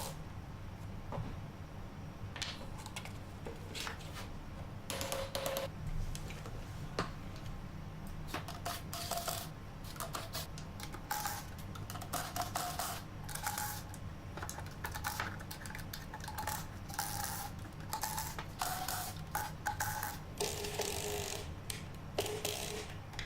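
Light metallic clicks and clinks of a wrench on nuts, washers and bolts as the bolts through the lid are tightened, scattered irregularly, some ringing briefly. A steady low hum runs underneath.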